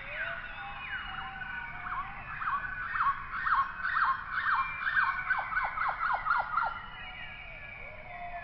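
Birds calling: a rapid series of short whistled notes, each sliding down in pitch. The notes grow louder and come about four a second through the middle, then stop about two seconds before the end.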